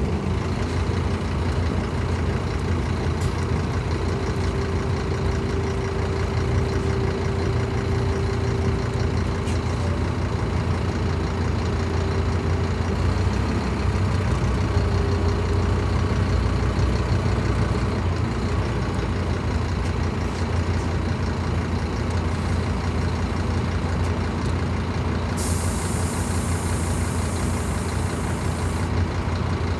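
Scania K310IB bus's diesel engine running with a steady low drone. Near the end comes a hiss of released air lasting about three seconds.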